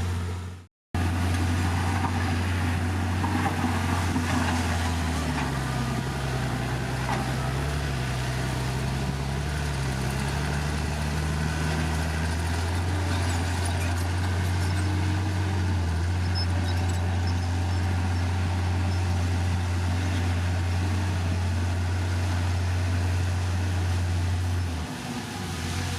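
Heavy diesel engine of earthmoving machinery running steadily with a low drone, a second engine note rising and falling between about five and twelve seconds in. The sound drops out completely for a moment just under a second in.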